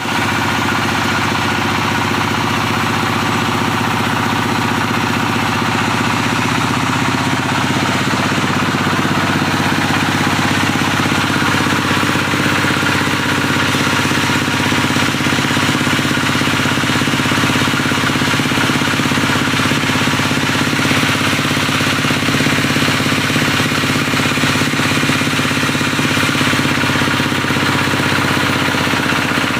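Diesel engine of a log-splitting sawmill running steadily at an even pitch, without change.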